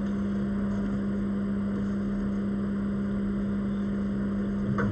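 Steady low machine hum, a constant tone over an even background noise, with a faint small click near the end.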